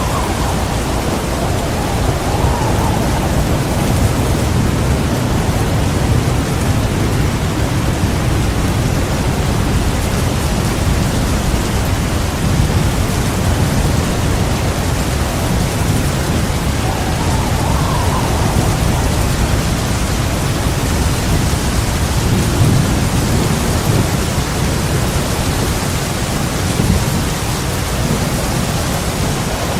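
Heavy rain pouring steadily, with low rolling thunder rumbling underneath that swells and fades a few times.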